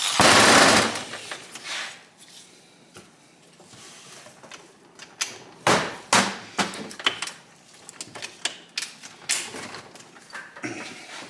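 A power drill whirs for about the first second, then stops. Scattered metallic clicks and clunks follow as the gearbox of a stripped Honda SL125 engine is turned and shifted by hand.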